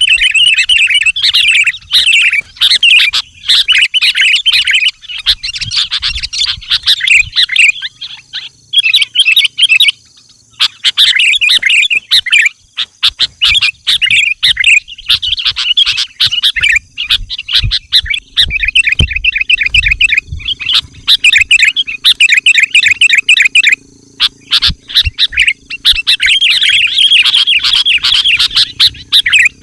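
Sooty-headed bulbul (kutilang) singing loudly and without let-up in fast, chattering phrases, with a couple of short breaks.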